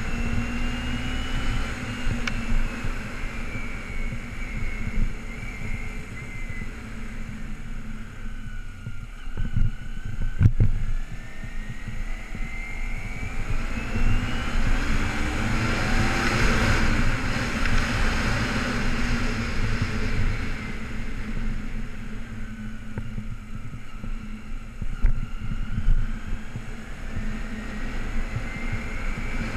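2008 Kawasaki Ninja 250R's parallel-twin engine running at low street speed, its note falling and rising several times as the bike slows and accelerates. A short knock comes about ten seconds in.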